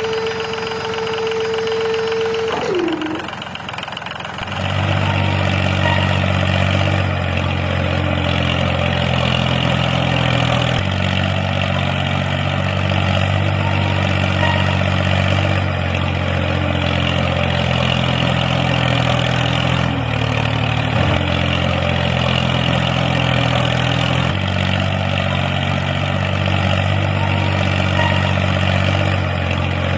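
An engine running steadily at idle, a low hum that shifts slightly in pitch every few seconds. Before it, a steady high whine glides down and stops about three seconds in.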